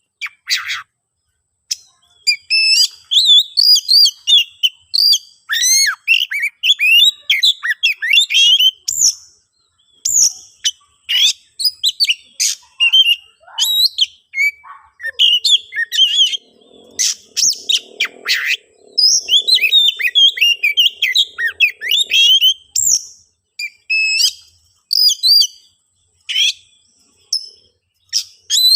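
Oriental magpie-robin (kacer) singing a loud, fast, varied song of whistles, chirps and sharp clicks in quick phrases with short pauses. A lower buzzing sound runs under the song for several seconds in the middle.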